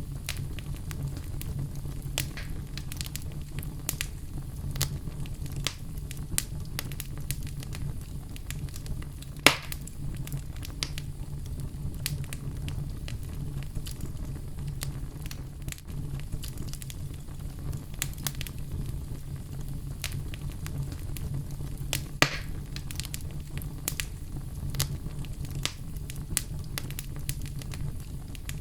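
Oak logs burning in a fireplace: a steady low rumble of flame with constant light crackling, and two sharper pops, about ten seconds in and about twenty-two seconds in.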